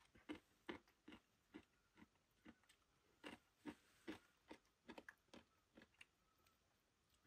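Faint chewing with wet lip smacks: a person eating a mouthful of stir-fried noodles, about two or three chews a second, stopping about six seconds in.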